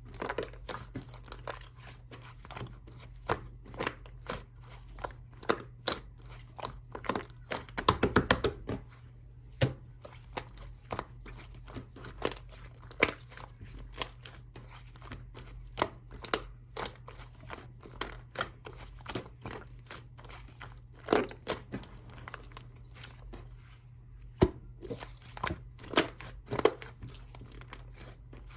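Hands squeezing and pressing yellow slime, giving sharp crackling pops and clicks, with a quick run of pops about eight seconds in. A faint steady low hum lies underneath.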